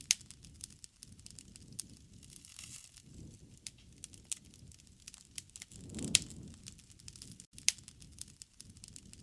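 Wood fire crackling, with sharp pops scattered through a soft low rush of flame. A loud pop comes just after the start, and another about six seconds in, where the flame rush swells briefly.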